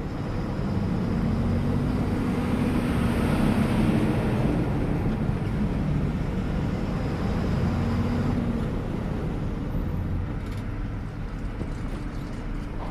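Truck engine and road noise heard from inside the cab, a steady low rumble with an engine hum that drifts up and down in pitch. A broad swell of noise builds a couple of seconds in and fades by about the middle.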